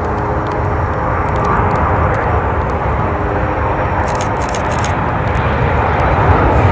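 Boeing 737-800 freighter's CFM56-7B jet engines on arrival, a steady rushing roar that grows gradually louder as the aircraft comes closer.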